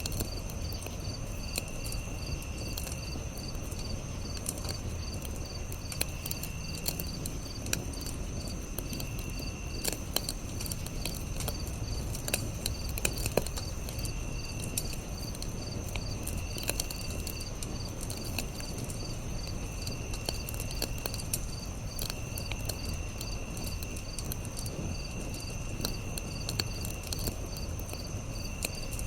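Campfire crackling with scattered small pops over a low steady rumble, while crickets chirp in a steady fast pulse, with a second insect trilling in short bursts about a second long every few seconds.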